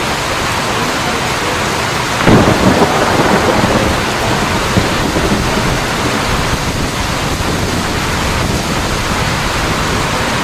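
Steady heavy rainfall, with a sudden clap of thunder about two seconds in that rumbles away over the next couple of seconds.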